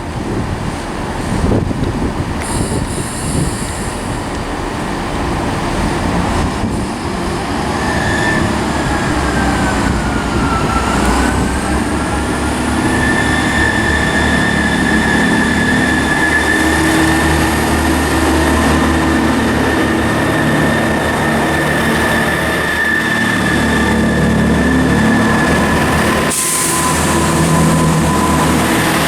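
Passenger train running at a station platform, with a steady rumble and a high whine that dips in pitch and then holds level from about twelve seconds in.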